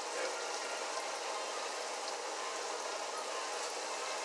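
Breaded chicken gizzards frying in a skillet of hot oil: a steady, even sizzle with tiny pops.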